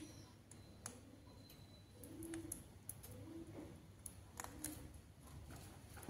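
Faint, low cooing calls from a bird, four or five short ones spaced about a second apart, with soft scattered clicks like beaks picking at food.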